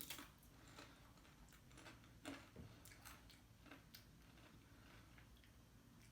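Faint, scattered clicks and taps of a plastic dip container and tortilla chips being handled, as the caramel dip is opened for tasting.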